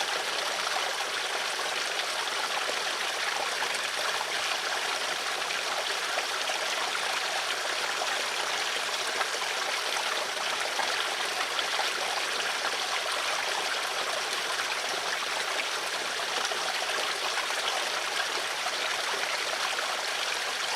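Stream water flowing and trickling steadily, an even rushing splash without pauses.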